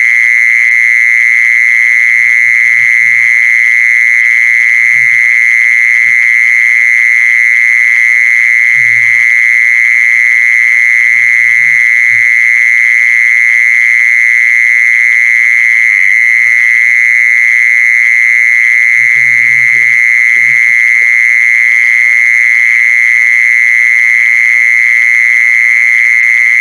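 The 'jee-son' insect singing: one loud, high-pitched, continuous call that holds a single steady pitch without a break.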